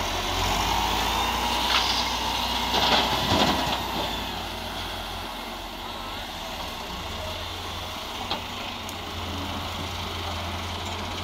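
Wheeled excavator's diesel engine running steadily, with a burst of clanks and rattles about two to three and a half seconds in and a single click later on.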